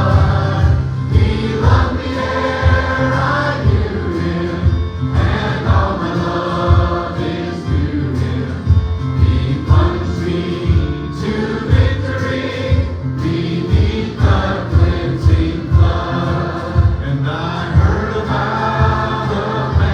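Youth choir singing a gospel song over accompaniment with a steady beat.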